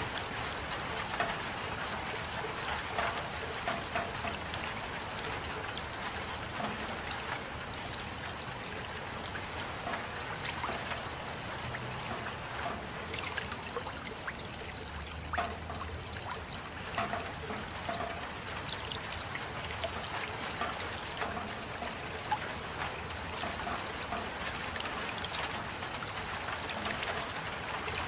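Rain falling steadily, a continuous wash of water noise dotted with many small, sharp drop hits, with water trickling.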